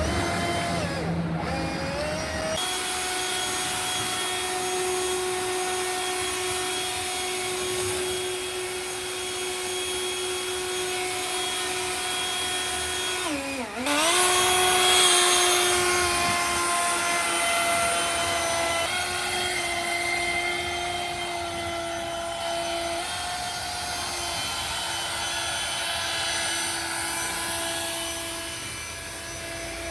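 Battery-powered cordless leaf blower running with a steady motor whine. It spins up over the first couple of seconds; about halfway through the pitch dips and comes straight back up, and it runs louder for a few seconds after.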